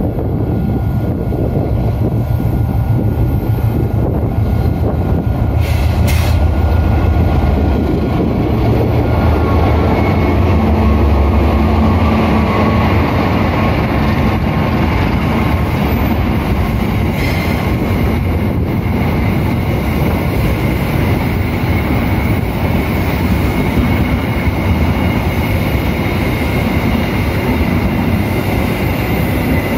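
A passenger train hauled by a diesel locomotive passes close by. The locomotive's deep engine rumble is loudest in the first dozen seconds, then gives way to the steady rolling noise of the carriages going by, with a thin high whine in the later part.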